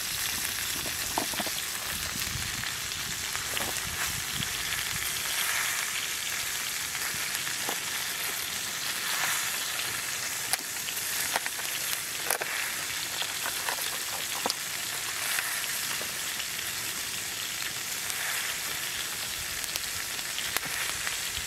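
Beef, vegetables and mushrooms sizzling in a dutch oven over a campfire: a steady frying hiss broken by scattered sharp pops and crackles.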